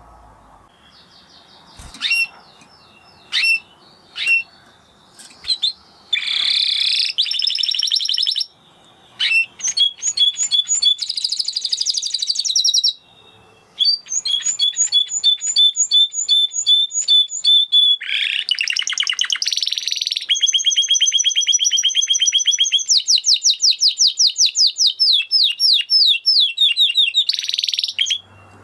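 Spanish Timbrado canary singing. After a few single chirps, it runs through long trilled phrases and rapid repeated notes, with a fast rattling trill near the end before the song stops abruptly.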